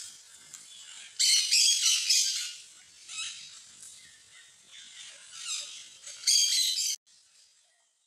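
Small birds chirping and squawking in shrill, rough bursts, loudest about a second in and again near the end, where the sound cuts off suddenly.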